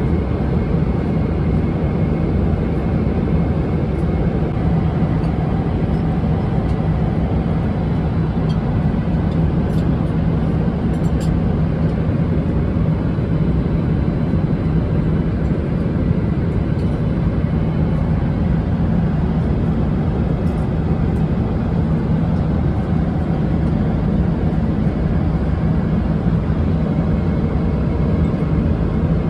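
Steady cabin noise of a Boeing 777-300ER airliner in flight: an even rush of engine and airflow noise with a constant low hum underneath.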